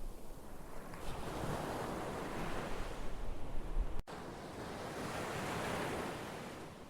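Ocean waves surging and washing in as a swelling and ebbing hiss, with two swells. There is a split-second gap in the sound just after four seconds in, and it fades away near the end.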